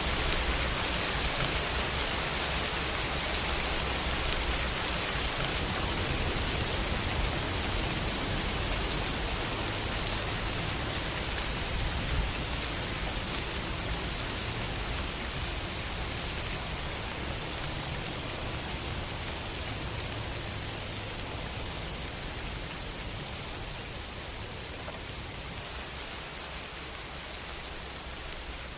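Steady rainfall, an even hiss of drops with a low rumble underneath, slowly growing quieter over the stretch.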